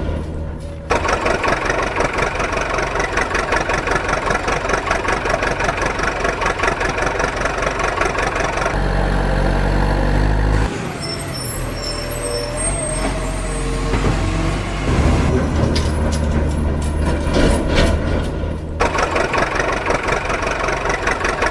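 A vehicle engine running, cut together from several short segments, with the engine note changing abruptly between them.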